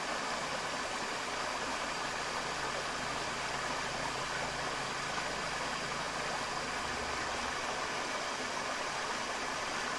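Forest river water rushing steadily, an even hiss of flowing water, with a low rumble underneath that fades away about seven seconds in.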